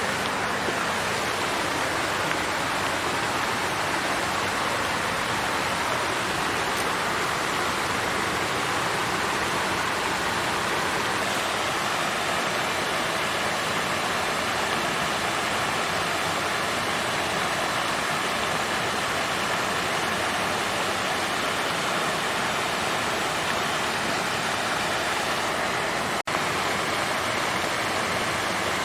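Water fountain flowing, a steady, even rush of falling water that cuts out for an instant about 26 seconds in.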